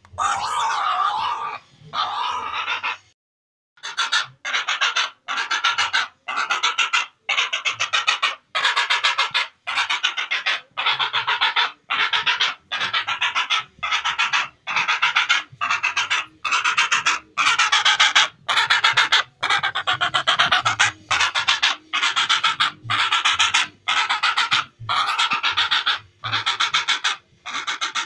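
Heron (cangak) giving harsh, raspy calls over and over, about one a second, with a brief break about three seconds in.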